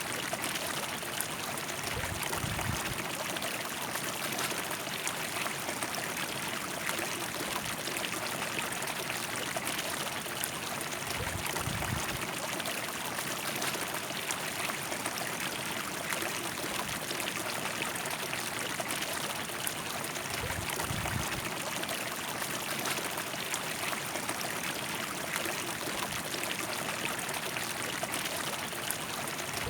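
River water flowing steadily, a continuous rush with trickling.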